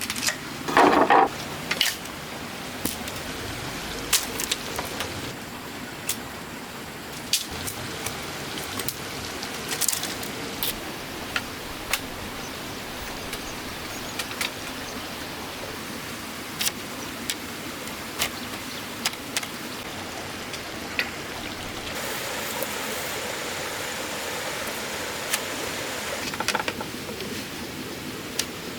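Irregular knocks and clicks from hand work, with a louder brief clatter about a second in, over a steady background hiss.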